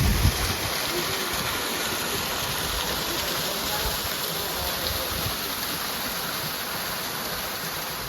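Waterfall: a steady rush of falling, splashing water, with a brief low thump right at the start.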